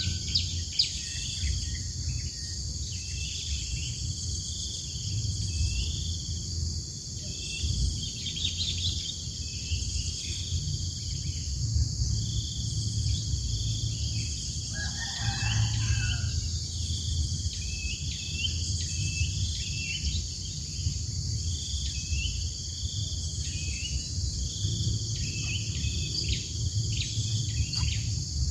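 Outdoor ambience of a steady insect chorus with many short, high bird chirps repeating throughout. A distant rooster crows once, briefly, about halfway through, over a low rumble.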